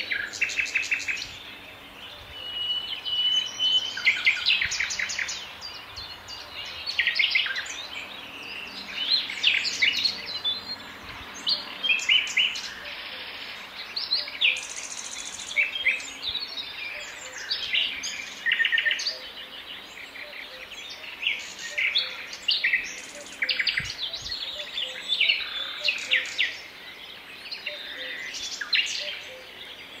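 Several songbirds singing at once in a dense woodland chorus: overlapping chirps, short whistles and rapid trills of quickly repeated notes, with a brief high buzzy note near the middle.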